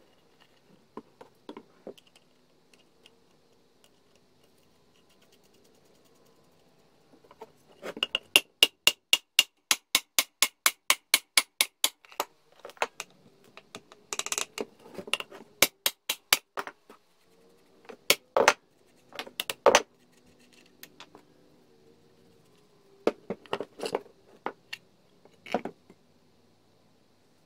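Small metal parts and tools clinking and knocking. About eight seconds in comes a quick run of regular, ringing metallic clicks, roughly five a second for four seconds, then scattered knocks and clinks.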